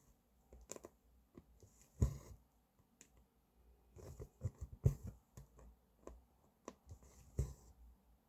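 Cross-stitch needle clicking through fabric, with thread drawn through in short swishes at irregular intervals.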